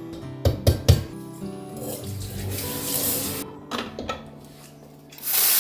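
Background music with kitchen sounds: a few quick clinks of dishes under a second in, and a tap running loudly near the end.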